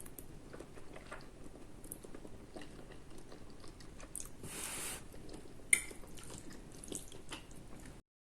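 A person chewing a mouthful of spaghetti and cucumber, with soft mouth noises and small clicks, and one sharper click about six seconds in. The sound cuts off just before the end.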